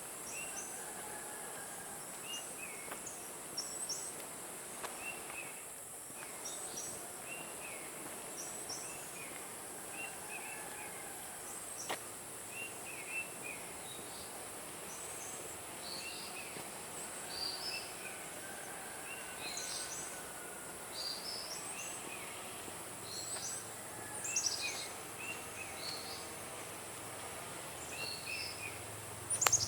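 Tropical forest ambience: a steady high insect drone, with birds chirping in short, repeated calls all through. There is a sharp click just before the end.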